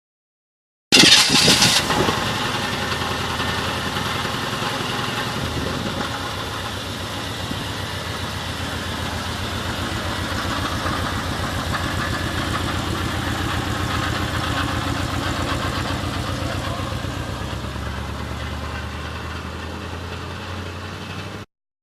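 1987 Chevrolet Camaro Z28 V8 engine: a loud flare of revs about a second in, settling into a steady idle that cuts off abruptly near the end.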